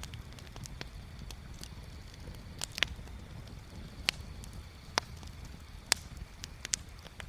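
Bonfire crackling: burning wood giving sharp, irregular pops and snaps, a few louder ones every second or so from about three seconds in, over a low steady rumble.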